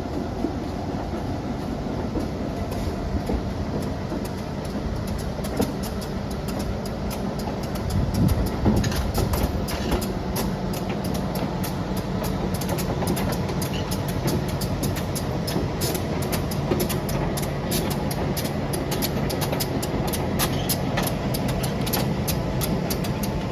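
A single diesel locomotive running light at low speed, its engine droning steadily. From about eight seconds in it gets louder and the wheels click rapidly over the rail joints.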